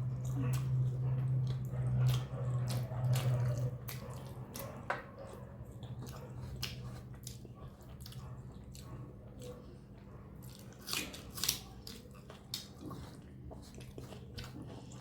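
A person eating rice and chicken curry: wet chewing and squishing with many small irregular clicks and smacks. A low hum runs under the first four seconds or so.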